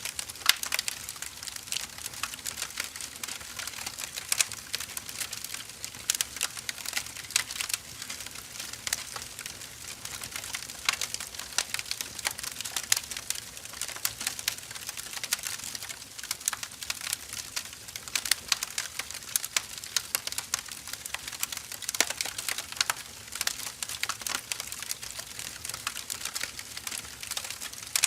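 Burning firewood crackling steadily, with dense irregular sharp pops and snaps over a soft hiss of flame.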